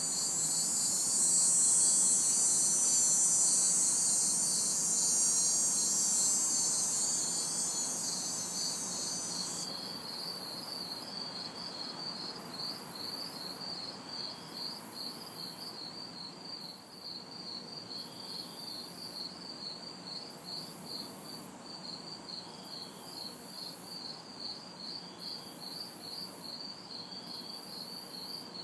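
Crickets chirping in a steady, rapid pulsing trill. A loud, high cicada buzz rides over them, easing off and then cutting out about ten seconds in. A faint low hum of distant city traffic runs underneath.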